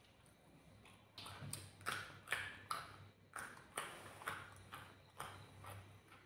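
Close-up mouth chewing with wet lip smacks, about two to three a second, starting about a second in and growing fainter near the end.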